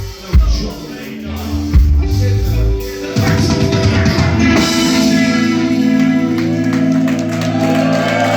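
Live rock band playing loudly, with heavy bass and drum hits, then about three seconds in a long held chord rings out with sustained guitar tones.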